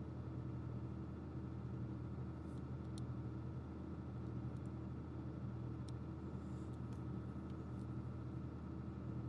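Steady low electrical or fan hum, with a few faint light clicks about three, six and seven seconds in.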